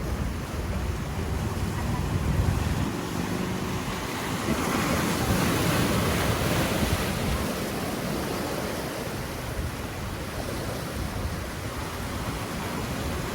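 Ocean surf washing in, with wind buffeting the microphone; a wave swells louder about five seconds in and then eases off.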